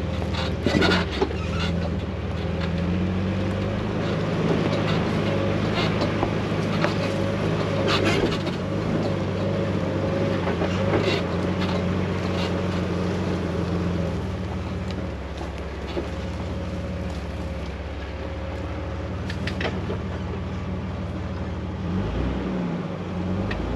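Jeep engine running at low, steady revs as the vehicle crawls along a rough off-road trail, with scattered knocks and rattles throughout.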